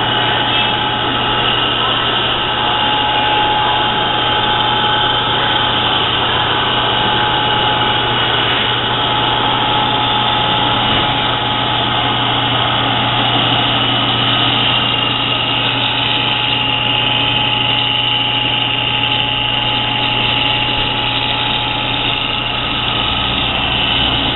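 Stainless-steel wash-down duty 1.5 HP electric motor running steadily on a test run: a constant hum with a higher, steady whine above it.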